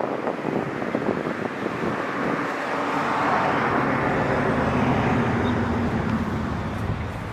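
A motor vehicle's engine running, its noise swelling through the middle and easing off near the end.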